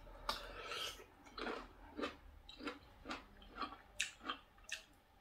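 A person biting into a dark plum-like fruit and chewing it, the chews coming about twice a second.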